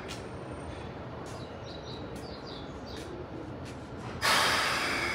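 Keikyu train running with a steady low rumble and a few faint high squeaks, then a sudden loud rush of hissing air about four seconds in.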